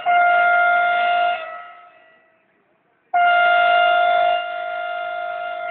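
Train horn sounding two blasts: a short one of about a second and a half, then, after a gap, a longer one that eases to a lower level partway through and holds on.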